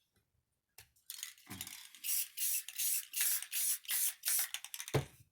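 Aerosol spray paint can hissing in a rapid series of short bursts, about eight over four seconds, with a low thud near the end.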